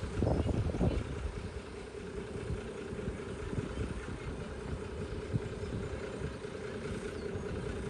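Vintage tractor engine running steadily, with a few louder rumbles in the first second.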